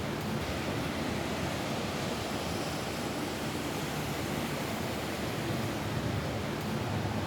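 Steady rain falling on a roof, an even, unbroken hiss with no separate drops or gusts standing out.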